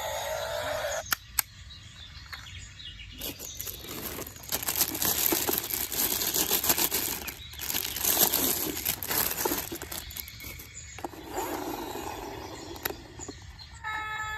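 Hard plastic toy vehicles rattling and clattering, a dense run of small clicks that is loudest in the middle, after a single sharp click about a second in.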